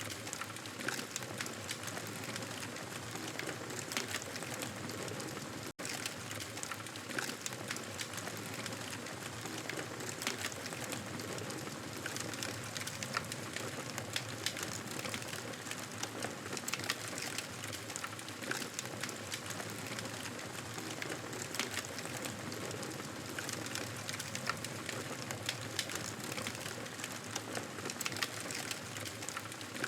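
Campfire burning with a steady hiss and frequent sharp crackles and pops of burning wood. There is a split-second break in the sound about six seconds in.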